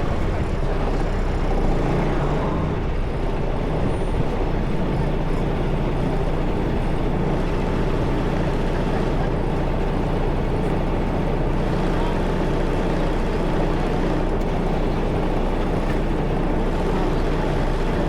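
Semi-truck diesel engine running steadily, with a faint steady whine over it.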